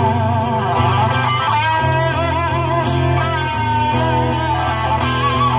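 Live band music in an instrumental break: an electric guitar plays a bluesy lead line with wavering, bent notes over a steady bass.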